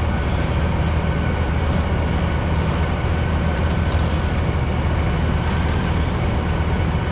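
Heavy earthmoving equipment and belt-truck engines running steadily while sand is unloaded and spread: a continuous low engine drone with a faint, steady high whine over it.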